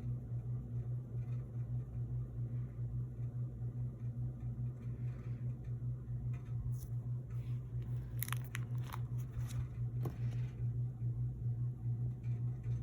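Steady low electrical-sounding hum, with a run of sharp plastic crinkles and clicks from about seven to ten seconds in as collectibles are handled.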